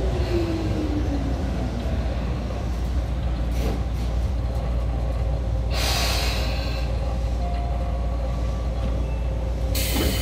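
Running sound inside a Tobu 9000 series train in a subway tunnel: a steady low rumble with a motor whine falling in pitch at the start, brief hisses about 3.5 and 6 seconds in, and a louder hiss starting near the end.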